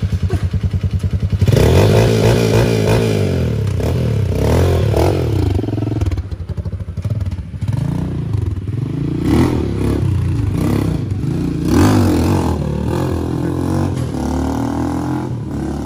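Honda XR200's single-cylinder four-stroke engine ticking over with a fast even beat, then revving up about a second and a half in as the bike pulls away. The pitch climbs and drops several times as it goes up through the gears, and the sound grows fainter near the end as the bike moves off.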